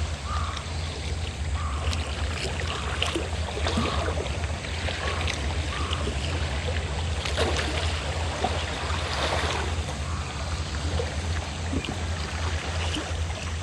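Fishing boat engine running steadily with a low throb, under waves lapping and splashing.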